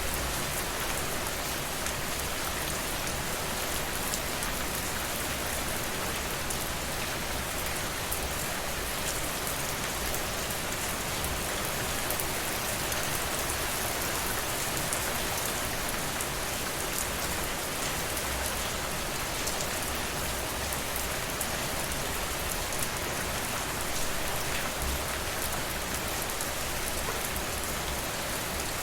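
Steady rainfall, with many fine drops pattering on a surface.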